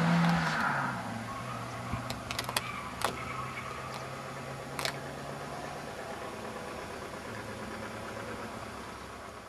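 Daihatsu hatchback's engine fading as the car drives away after a hard corner: a steady drone that drops in pitch about a second in, then a fainter steady hum that dies away by around six seconds. A few sharp clicks sound between two and five seconds in.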